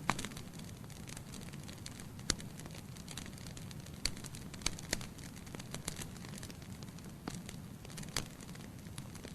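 Wood fire burning in a fireplace: a steady low rumble of flames with irregular sharp crackles and pops from the burning logs, the loudest just after the start and about two seconds in.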